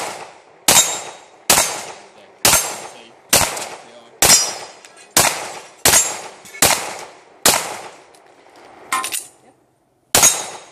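Springfield XD(M) 5.25 pistol firing a string of single shots at a steady pace, roughly one every 0.8 s, each with a short echo. Ten shots come in a row, then a pause with a fainter clank, then one more shot.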